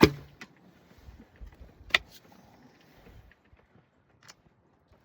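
A bow being shot: a sharp, loud snap of the release with a brief low string thrum, a faint hit a moment later, then another sharp click about two seconds in.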